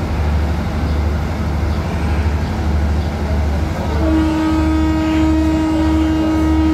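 Diesel-hauled passenger train standing at a station platform, its engine rumbling steadily at idle. About four seconds in, a steady held tone starts and holds to the end.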